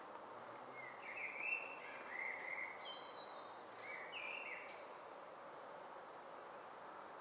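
A bird calling in a few short chirping phrases between about one and five seconds in, over a steady outdoor background hiss.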